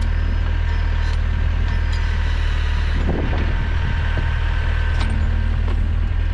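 Small tractor engine running steadily while it works the backhoe, with a steady high whine over the engine hum. A few scrapes and knocks come about three seconds in.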